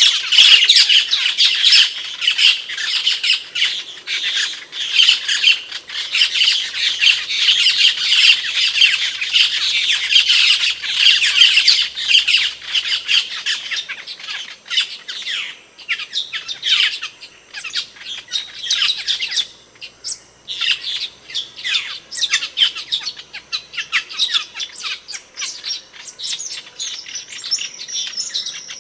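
Camperling birds calling: rapid, harsh, squawking chatter, dense and continuous for the first half, then thinning into separate bursts with short gaps.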